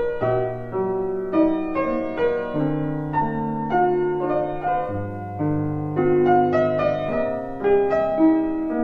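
Background piano music: a slow, gentle melody over sustained bass notes.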